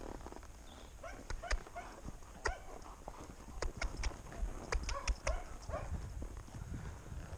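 A ridden horse moving at a walk, with irregular hoof falls and clinks of tack, over wind rumbling on the microphone.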